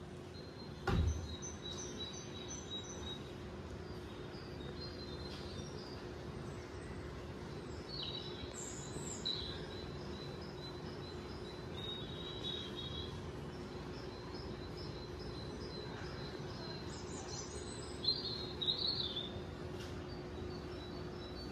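Small birds chirping in rows of short, high calls over a steady low hum, with a single thump about a second in.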